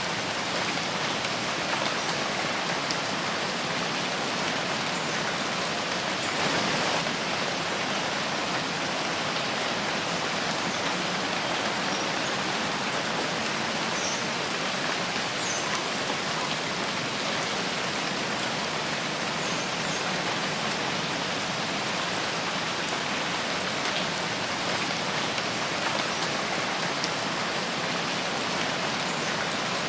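Steady rain falling in a forest: an even, dense hiss of rain with scattered drops ticking on leaves.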